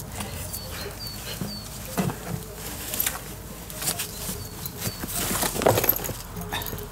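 Short high bird chirps, three about half a second apart near the start and two more a little past the middle, over scuffing and knocking noises. A louder rustling comes around five to six seconds in.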